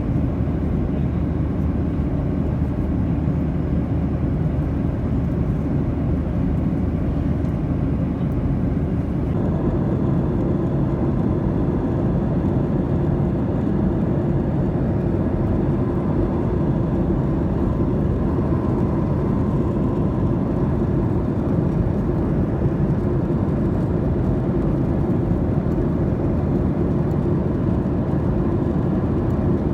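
Steady jet engine and air rush heard inside the cabin of a Boeing 737-900 airliner. About a third of the way in, the noise shifts slightly and a faint steady whine joins in.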